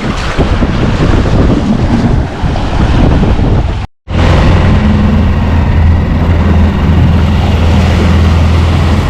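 Wind buffeting the microphone over water, then, about four seconds in, a small dinghy outboard motor running at a steady speed.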